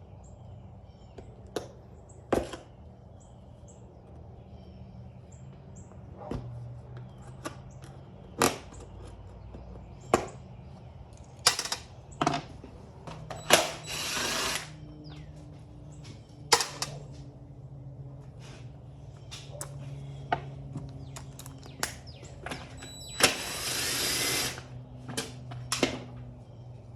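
Tools and metal parts clicking and clanking during a motorcycle teardown, with two bursts of a power tool about a second long, one near the middle and one near the end.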